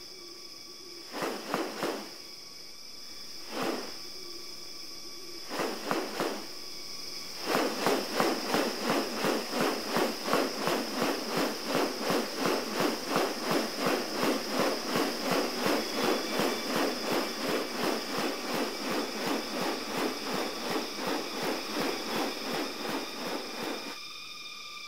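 Rainforest ambience: a steady high insect drone, with a few separate pulses early on. From about seven seconds in, a fast, regular pulsing sound of about two or three beats a second repeats until near the end.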